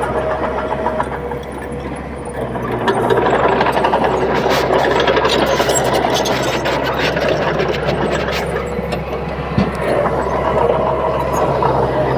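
Komatsu D31P crawler bulldozer's diesel engine running, growing louder and rougher for several seconds in the middle, with scattered clanks and knocks.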